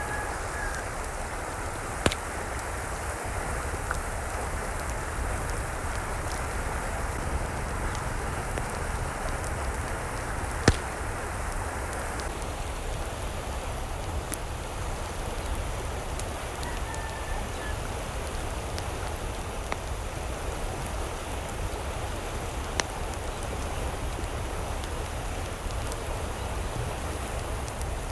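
Steady rush of running water, with a few sharp clicks about two seconds in, near the middle and later on, and faint short chirps near the start and after about seventeen seconds.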